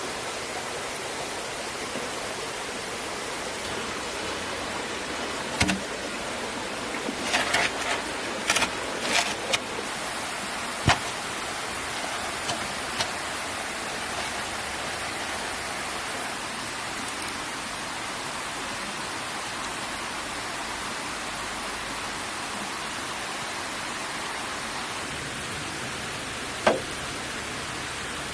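A steady rushing of water, with a few short knocks and clatters scattered over it, several in a quick cluster about seven to nine seconds in and a sharp one near the end.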